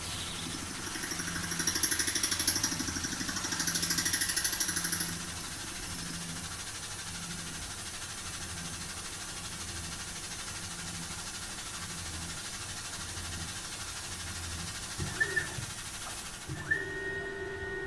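Tormach PCNC 440 milling machine making a facing pass with a fly cutter across the copper face of a quarter: a harsh, pulsing cutting noise for about four seconds, then the spindle running steadily. Near the end a pair of held tones begins.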